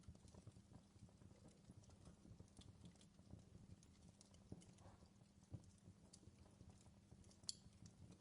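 Faint crackling of a wood fire: scattered small pops and snaps, with a sharper pop near the end.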